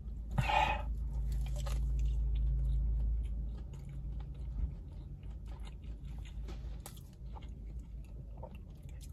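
A person biting into a crispy fried chicken wing and chewing it with their mouth closed, with small crunching clicks throughout. A low steady hum is loudest over the first few seconds.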